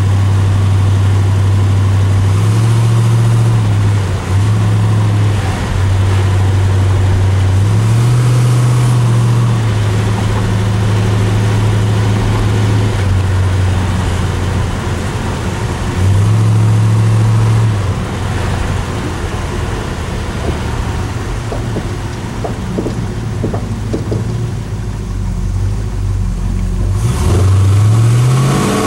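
1981 Chevrolet Monte Carlo's 396 big-block Chevy V8 running while driving, heard from inside the cabin. The engine note steps up and eases back several times with the throttle, then rises steadily near the end as the car accelerates.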